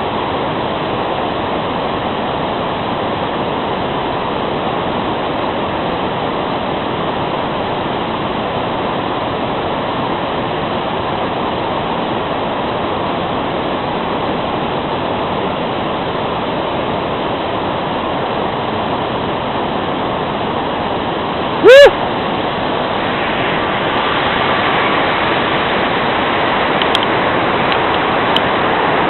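Steady rushing noise, with one short, very loud rising squeal about twenty-two seconds in; the rush grows a little louder after it.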